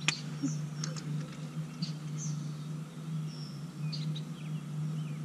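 Birds chirping in short, scattered high calls, a few of them quick falling notes, over a steady low hum. A single sharp click sounds right at the start.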